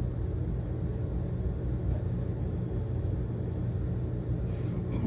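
A steady low rumble with a constant low hum.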